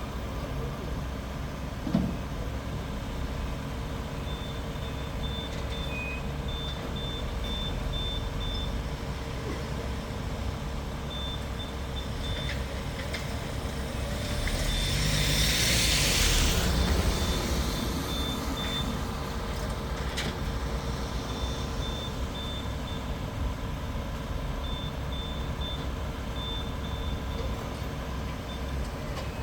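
Steady engine rumble with runs of high, short electronic beeps that start and stop, typical of a vehicle's reversing alarm. A rushing noise swells and fades about halfway through.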